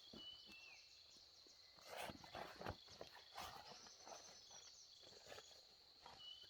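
Faint rural outdoor ambience: a steady high insect drone with short bird chirps. A few rustling knocks come about two to three and a half seconds in.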